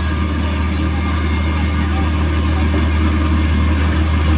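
Engine of heavy road-construction equipment running steadily at an even idle, a deep unbroken hum.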